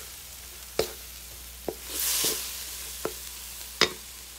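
Chopped shrimp, carrots and tomato sizzling in a pan while a wooden spatula stirs them, its edge knocking against the pan about four times. The sizzle swells briefly about two seconds in.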